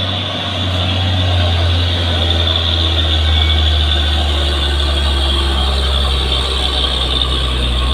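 Diesel engine of a Hino engkel (single-rear-axle) truck pulling up a steep climb, a steady deep drone that swells a little in the first few seconds and then holds.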